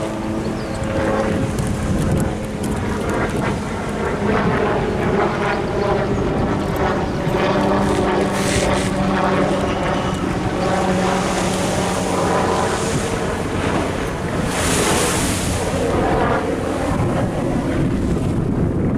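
Wind on the microphone over surf washing against a sea wall, with a steady droning hum underneath and a louder wash of water about fifteen seconds in.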